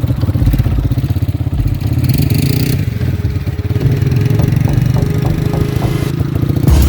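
Car engine running with a rapid, even pulsing, and a short hiss about two seconds in.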